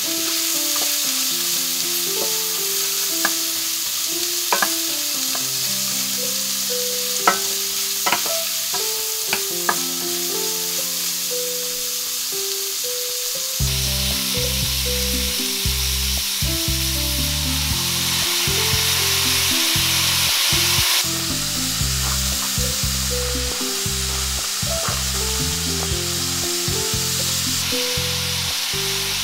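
Sliced vegetables sizzling as they stir-fry in a stainless steel pan, with a wooden spoon clicking against the pan several times in the first half. Background music plays over it, a deeper bass part coming in about halfway.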